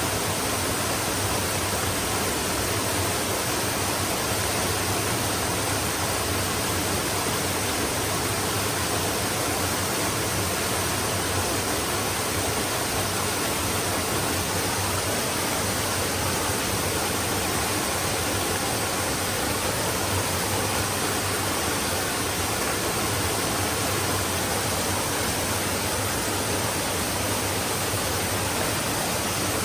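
Flowing stream water rushing steadily: an even, unchanging hiss with no separate splashes or gurgles standing out.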